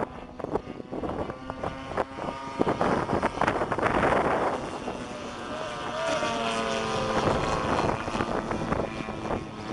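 Radio-controlled aerobatic model airplane flying. Its motor is heard as a tone that wavers up and down in pitch from about halfway in, with wind buffeting the microphone in the first half.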